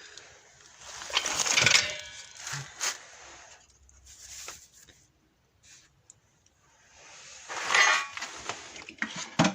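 Work noises while handling car parts and tools: rustling and hissy scraping in several short bouts, with light clinks and a sharp knock near the end.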